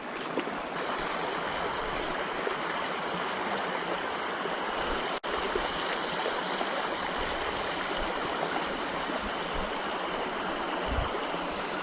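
Flood-swollen river water rushing steadily, an even hiss with a momentary break about five seconds in.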